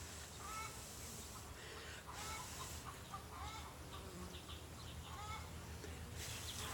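Chickens clucking softly, short scattered calls repeating throughout.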